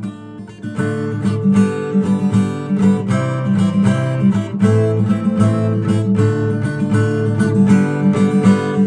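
Acoustic guitar strumming chords in a steady rhythm, with a short lull just at the start before the strumming picks up again.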